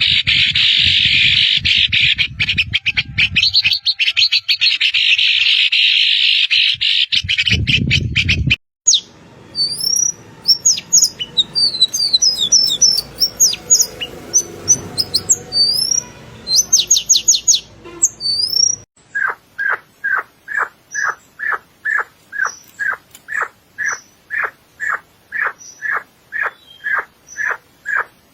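Birds calling and singing: dense, high chattering for the first eight seconds or so. Then comes varied whistled song with rising and falling notes, and from about 19 s in a single bird repeats one short note about twice a second.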